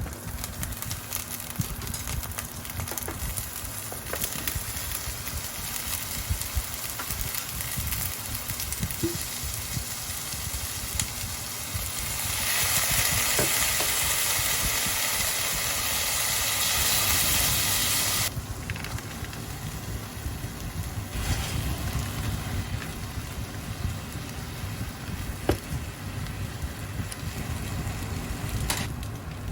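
Food sizzling and crackling in a frying pan, with scattered pops. For about six seconds midway the sizzle swells into a louder, steady hiss.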